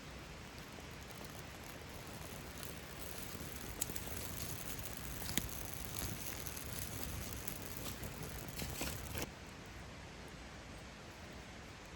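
Wood campfire crackling, with scattered sharp pops over a steady hiss; the crackling cuts off suddenly about nine seconds in.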